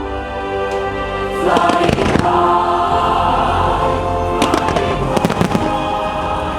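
Fireworks bursting and crackling over the show's music, with a cluster of bangs about a second and a half in and another rapid cluster around five seconds in.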